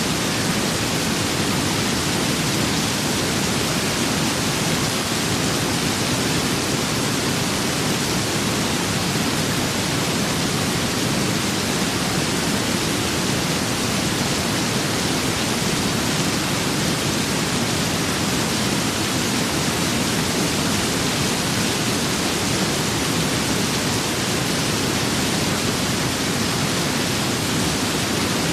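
Steady rain with wind, a constant even hiss with no single drops, gusts or thunder standing out.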